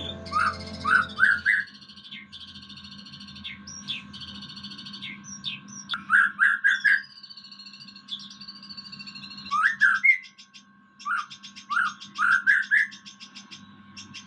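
Songbird singing: loud short rising whistled notes in quick runs of three to five, repeated several times, with fast high trills between them.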